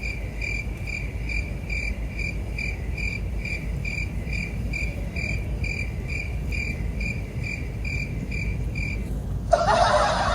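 Cricket chirping, a steady train of short evenly spaced chirps, about two to three a second, over a low steady rumble; the chirping cuts off abruptly about nine seconds in and a louder sound takes over near the end.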